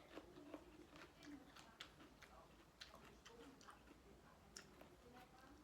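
Faint chewing with scattered small clicks and smacks of the mouth as a person eats spicy seafood salad with rice noodles.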